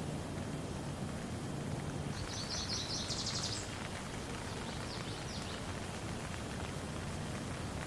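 Steady patter of rain, with a bird singing a quick, rapidly repeated trill a couple of seconds in and a few fainter short calls about a second later.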